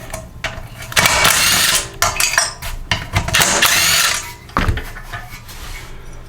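Ratchet wrench with a socket on an extension backing out 3/8-inch bolts on a Briggs & Stratton small engine: two runs of ratcheting about a second long each, with a few clicks and knocks between.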